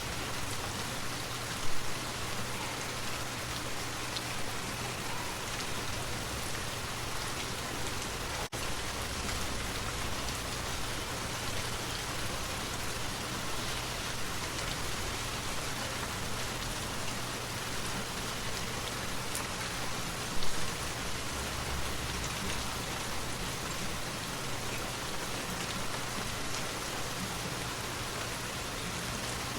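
Steady rain falling on surfaces, an even dense hiss. Two brief louder knocks stand out, a couple of seconds in and about two-thirds of the way through, and the sound drops out for an instant near the end of the first third.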